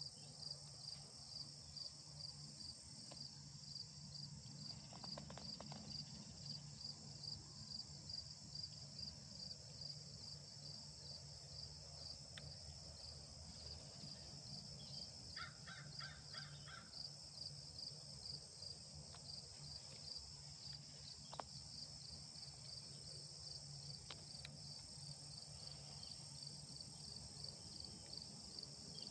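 Crickets chirping steadily in a fast, even pulse, with a low steady hum underneath. About halfway through, a bird calls briefly with a quick run of repeated notes.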